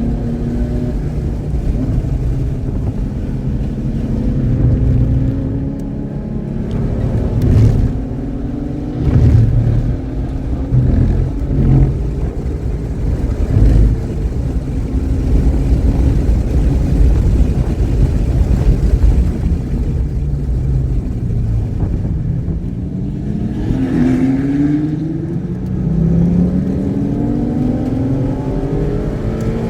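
Car engine on a race track, revving up and down as it accelerates and slows through the gears, running without misfiring. A few short, loud jolts stand out about a third of the way in.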